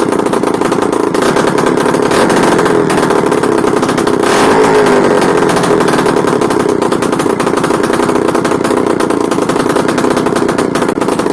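Izh Planeta Sport's single-cylinder two-stroke engine running on its first start after reassembly, a loud, rapid, even firing beat that picks up briefly in revs about four seconds in.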